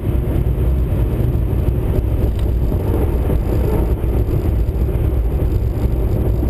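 Chevrolet Corvette C6 Z06's 7.0-litre LS7 V8 heard from inside the cabin while the car is moving: a steady, deep engine sound that holds its pitch with no clear rise or fall.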